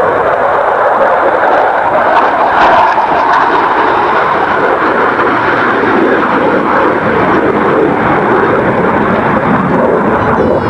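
Aircraft flying past with a loud, steady engine noise that swells to its loudest about two and a half seconds in.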